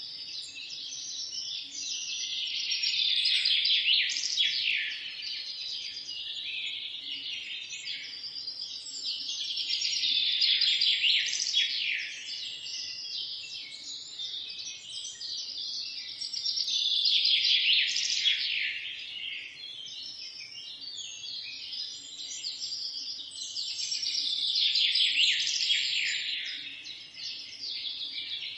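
Many small birds chirping and singing together in a dense chorus of quick high notes, swelling louder and fading back about every seven seconds.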